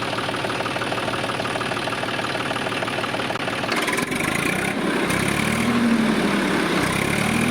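Mini tractor's small engine running with a rapid even ticking, then its pitch rising and falling through the second half as it revs.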